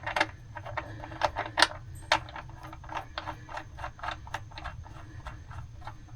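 Wrench ratchet clicking in quick, uneven ticks, about four to six a second, as the oil drain plug is run into the oil pan.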